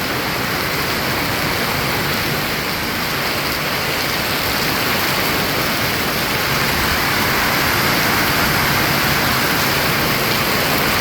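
Heavy rain pouring down in a steady, dense hiss that slowly grows louder as the downpour comes down harder.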